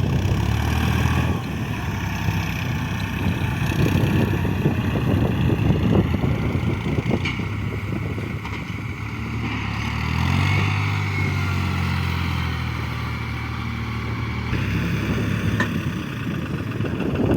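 New Holland 3630 tractor's diesel engine running steadily, its pitch rising about ten seconds in and easing back down a few seconds later.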